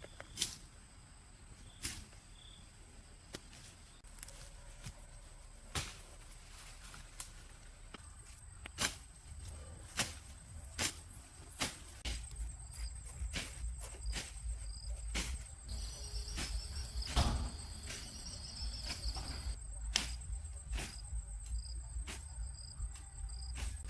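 Irregular sharp knocks or strikes, about one every second or two, over a steady high insect-like drone; a low rumble comes in about halfway through.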